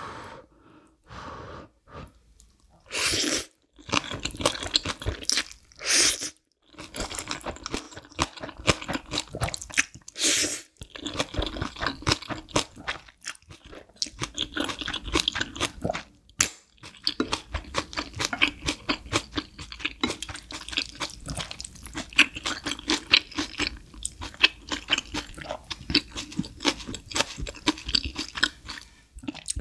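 Close-miked chewing of Chapagetti black bean noodles with green onion kimchi: wet crunching and mouth sounds throughout. A few louder, longer bursts come in the first ten seconds or so.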